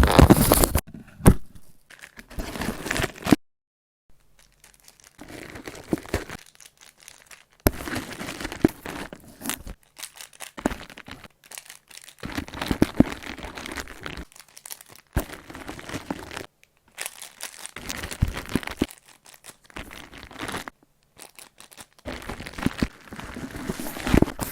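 Parcel-packing sounds: plastic packaging crinkling and rustling, with tearing, in bursts of a few seconds broken by sudden silent gaps.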